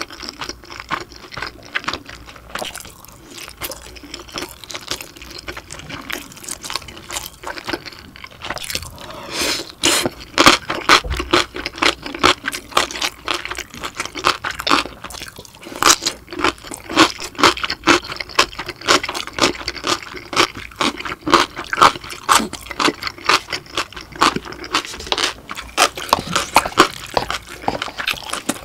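Close-miked eating sounds: chewing of dumplings and kimchi, with wet mouth clicks and crunching, quieter at first and getting louder and busier about ten seconds in.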